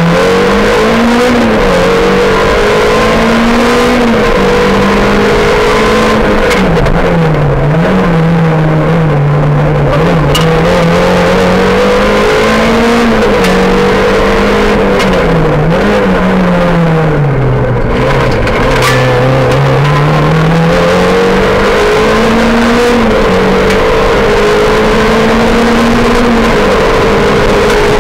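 Rally car's engine heard from inside the cabin, pulling hard with revs climbing and then dropping back sharply at each gear change, over and over. A few short sharp knocks cut in briefly.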